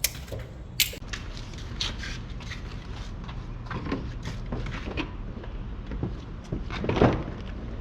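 Scattered clicks, knocks and rustles of cables and plastic clips being handled while a charging-cable harness is routed and clipped into place, with a sharp click at the start and the loudest knock about seven seconds in, over a steady low hum.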